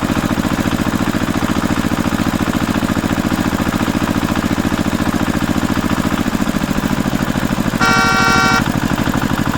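Tractor engine sound running steadily with a fast, even pulse, and a short horn honk about eight seconds in.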